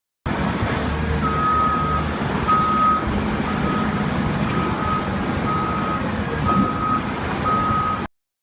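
Reversing alarm beeping from a radio-controlled construction machine's sound unit: a single high tone repeating about once a second, seven or eight beeps, over a steady low motor rumble.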